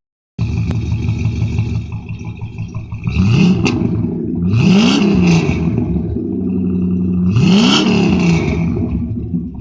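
A car engine idling, revved three times a few seconds apart: each time the revs climb quickly and drop back to idle. A steady high whine runs under the engine.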